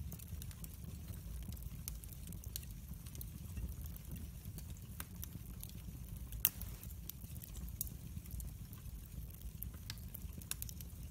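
Wood fire burning in a fireplace: scattered sharp crackles and pops over a steady low rumble, with one louder pop about six and a half seconds in.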